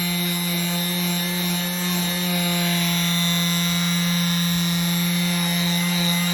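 Bosch GSS 23 AE orbital finishing sander running steadily with a constant hum and even hiss, sanding wood.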